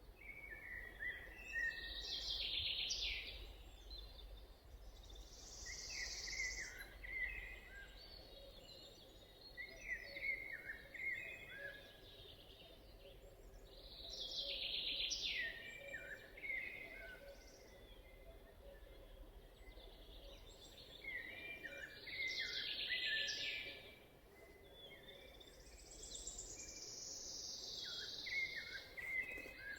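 Songbirds singing in a forest, short bright song phrases following one another every few seconds, some falling in pitch, over a faint low background rumble.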